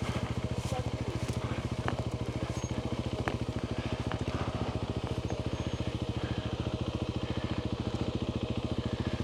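Off-road motorcycle engine idling steadily with an even pulse, with a few faint clicks over it.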